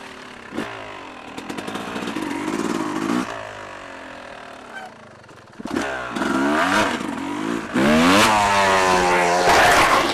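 Dirt bike engine revving on the trail: it eases off to a lower drone around the middle, then the revs climb twice to the loudest part near the end, with knocks and rattles from the bike over rough ground.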